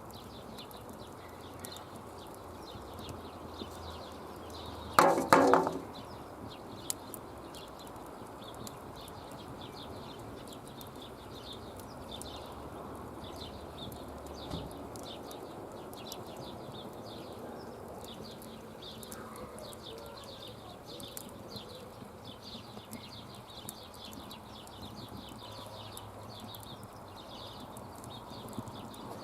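Campfire crackling faintly with irregular small pops over a steady outdoor background. About five seconds in comes one short, loud pitched call.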